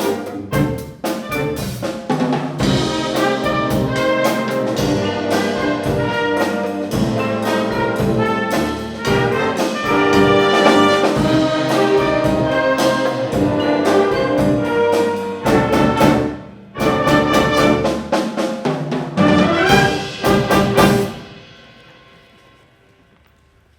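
Concert wind band with brass and percussion playing the loud closing bars of a piece. After a brief break near the end it ends on a final chord that cuts off sharply and rings away in the hall.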